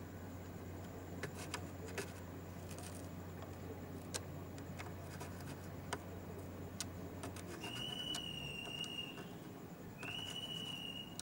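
Light clicks and taps of hand tools at a workbench while a new MOSFET is soldered onto a projector circuit board. A low hum stops about two-thirds of the way through, and two long high whistling tones follow, about a second apart.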